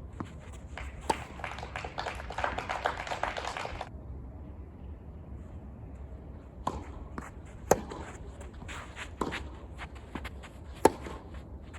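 Tennis ball struck with rackets in play: sharp single pops, a second or more apart, in the second half. Before that comes a couple of seconds of dense patter.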